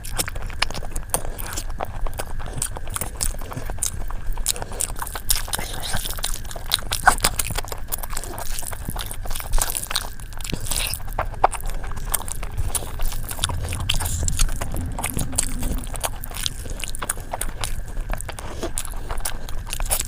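Close-up eating sounds: a person biting and chewing crunchy food, with many short sharp crunches scattered irregularly throughout.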